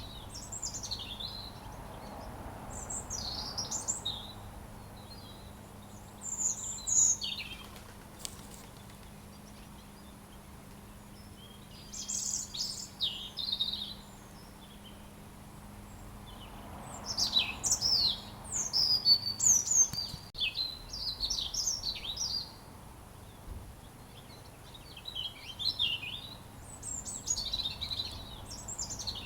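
A robin singing: phrases of quick, high chirping notes, about six phrases with pauses of a few seconds between them, over a faint steady background hiss.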